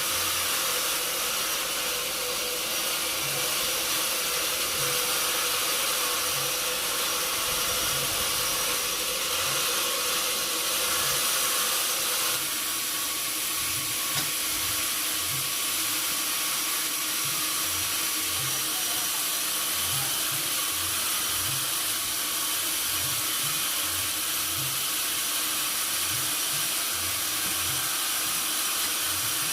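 Sawmill machinery running steadily with a loud hiss and a steady hum; the hum drops to a lower pitch about twelve seconds in.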